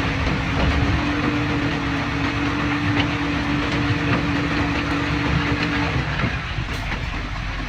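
Heavy earthmoving machinery running under load, a steady diesel rumble. A steady droning tone over it stops about six seconds in.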